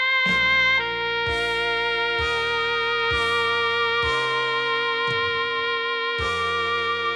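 Alto saxophone playing a slow ballad melody over a backing track. It holds a long note with vibrato while the accompaniment's bass and chords sound about once a second.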